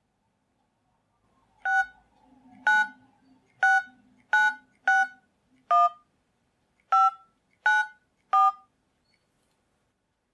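Telephone touch-tone keypad dialing a number: nine short dual-tone beeps at uneven spacing, one per key press.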